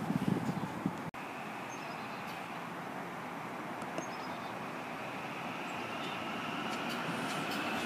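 Wind buffeting the microphone for about the first second, then an approaching SEPTA electric commuter train: a steady rumble with a faint whine that rises slowly in pitch and grows louder toward the end.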